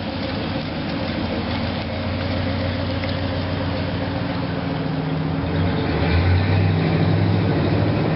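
Chevrolet 5.0-litre V8 idling steadily after a cold start on a cold morning, its low running note growing louder about five and a half seconds in.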